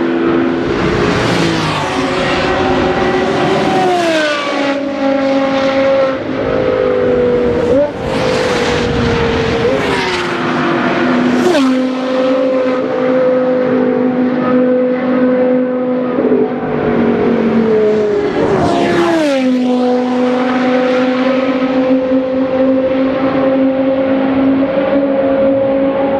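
Porsche Carrera GT's 5.7-litre V10 with a straight-pipe exhaust, loud and high-revving, accelerating hard and passing by several times, its pitch dropping sharply as it goes past.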